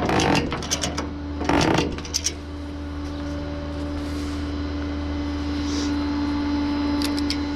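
Metal clatter and clicks, then a steady mechanical hum with one constant tone that starts about two and a half seconds in.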